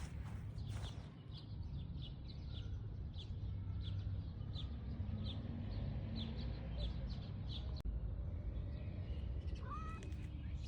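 A small bird chirping over and over in short, high notes, about two a second, over a steady low rumble.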